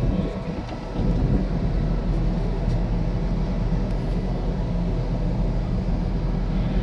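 Strong wind at sea buffeting the microphone as a steady low rumble, with a faint steady machinery hum underneath; it swells about a second in.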